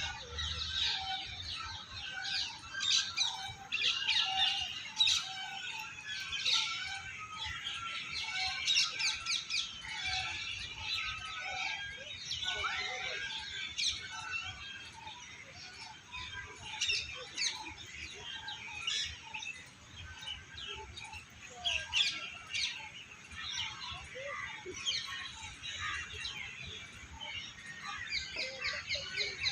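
Many birds chirping and singing at once, a dense chorus of overlapping short calls and trills that never breaks.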